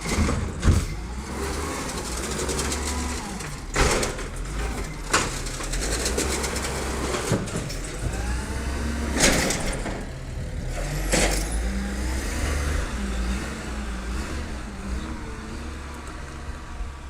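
Garbage truck running, its engine drone rising and falling in pitch, with about six sharp knocks and hisses spread through it.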